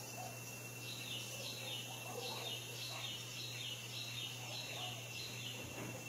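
A bird calling a steady run of short, falling high notes, roughly three a second, beginning about a second in and stopping shortly before the end. Under it are a steady high thin tone and a low hum.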